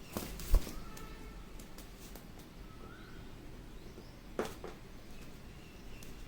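Ringneck parrot giving faint short chirps. A sharp tap about half a second in is the loudest sound, and a second tap comes about four and a half seconds in.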